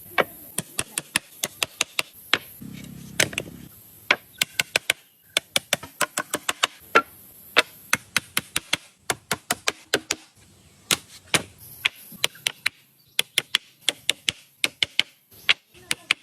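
Quick, sharp taps of a hand tool striking wood, several a second in uneven runs with brief pauses between them.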